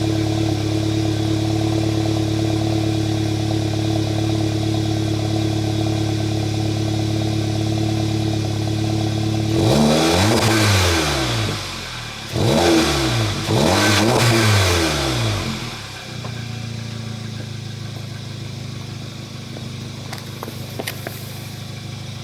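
2015 Volkswagen GTI Mk7's turbocharged 2.0-litre four-cylinder idling through an AWE Track Edition catback exhaust after a cold start. About ten seconds in it is revved three times, each rev rising and falling back, the first longest, and it then idles on more quietly.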